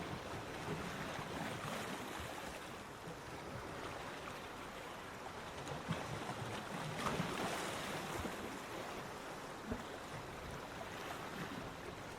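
Ocean surf washing onto a beach: a steady wash of breaking waves that swells a little louder about seven seconds in.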